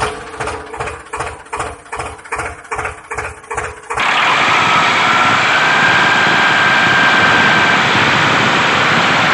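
A small motor running: rhythmic pulsing about three times a second, then about four seconds in an abrupt switch to a louder steady running noise with a faint high whine that rises slightly.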